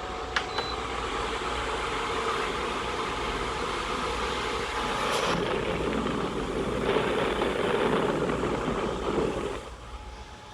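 2017 Keystone evaporative air cooler's fan running, a steady rush of air with a faint steady hum, and a short click about half a second in. The sound gets quieter near the end.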